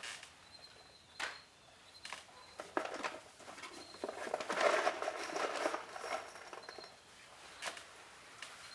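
Scattered light knocks and clicks, with a longer stretch of rustling and scraping about four to six seconds in, as a person clambers about inside a wooden chicken tractor.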